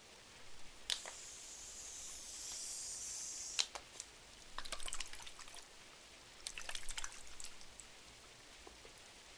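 Soft rain pattering on window glass. About a second in, a papery page turn swishes for a couple of seconds. Sharp wood-fire crackles follow, a single snap and then two short clusters.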